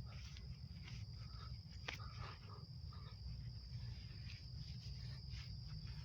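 Faint rustling, scuffing and small knocks of a person moving about and handling things, with one sharper click about two seconds in, over a steady high-pitched whine and a low rumble.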